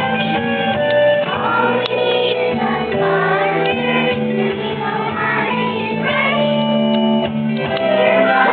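Children singing a show song together over steady instrumental accompaniment.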